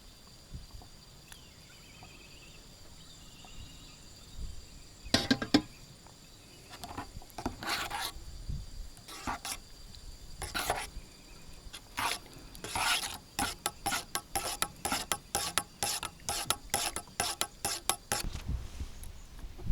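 A series of short rasping scrapes: a few scattered ones, then a quicker run of about three a second that stops shortly before the end.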